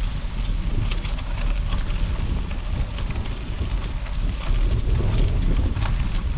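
Wind buffeting the microphone while riding, a steady low rumble, with scattered small clicks and crunches from tyres running over gravel.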